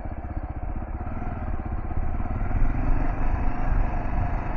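Kawasaki KLR650's single-cylinder engine running steadily, a little louder from about halfway through.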